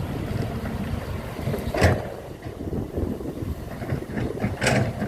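Steady low rumble of machinery or an engine, with wind on the microphone, and two sharp knocks, about two seconds in and near the end.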